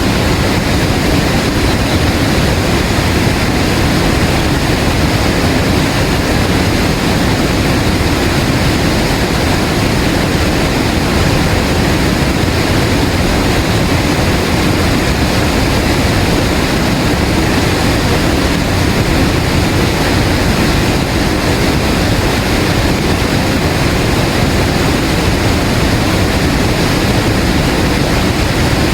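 Waterfall: a steady, loud rush of falling water, even throughout and heaviest in the low range.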